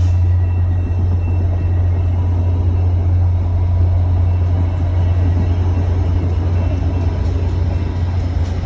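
Train running with a steady, deep rumbling drone.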